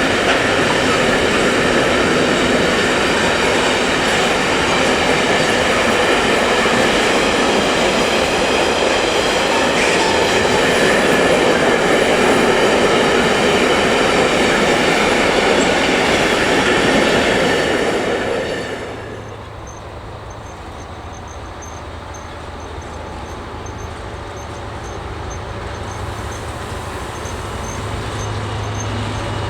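A train passing close by, its wheels running loudly over the rails; about two-thirds of the way through the noise drops away quickly as the train goes past, leaving a low steady hum that slowly grows louder.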